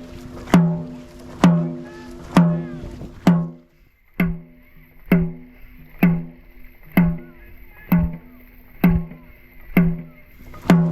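Dragon boat drum struck in a steady beat, about one hit a second, each a deep booming stroke that rings briefly, setting the paddlers' stroke rate during the race.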